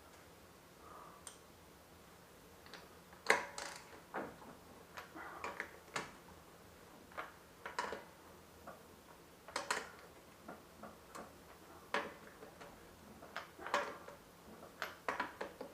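Irregular light clicks and metallic knocks, a few a second at times with short gaps, from hand work on the wheel: tools and parts handled as the wheel goes back on.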